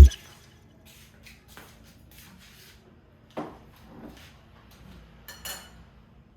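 Faint household handling sounds: a few soft knocks and clicks over a low steady hum, the clearest about three seconds in and two more near the end.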